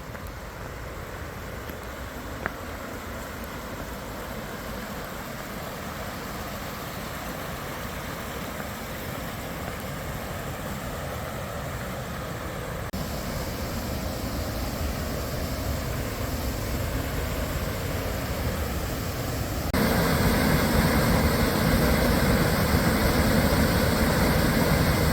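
Steady rush of a mountain creek and waterfall, growing louder and stepping up suddenly twice, loudest near the end.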